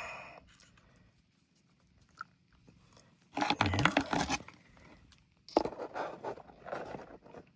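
A spoon scraping and clacking in a macaroni-and-cheese cup, with crinkly handling noise, in two bursts: one about three seconds in, a longer one about five and a half seconds in.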